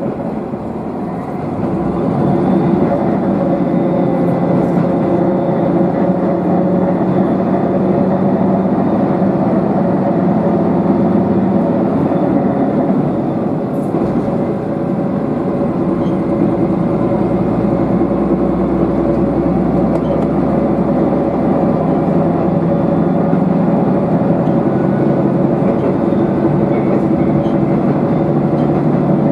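Diesel railcar running, heard from inside the car. The engine drone is steady and grows louder about a second and a half in, over the running noise of the wheels on the track.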